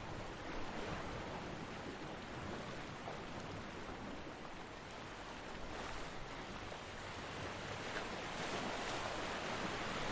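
Ocean surf: waves breaking and washing on a beach, a steady rushing hiss that swells and eases, building again near the end.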